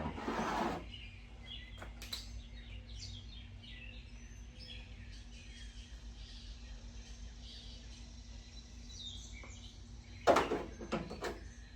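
Small birds chirping repeatedly over a steady low hum. A short, loud, noisy clatter comes about ten seconds in.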